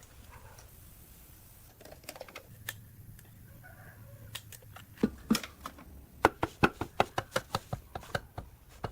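A rapid series of sharp clicks and light knocks, about four or five a second, starting about halfway through after a few scattered clicks.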